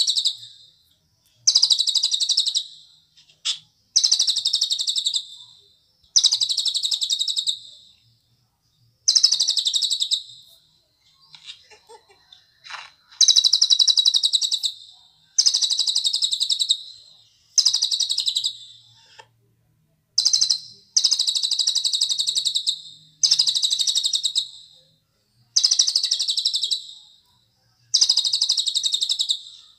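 Cililin songbird singing: loud, high, rapid trilled phrases, each about a second long, repeated one after another with short pauses between them.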